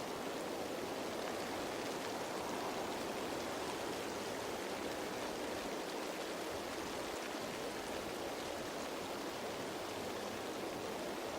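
Steady rain falling on leaves: an even, unbroken hiss of many raindrops.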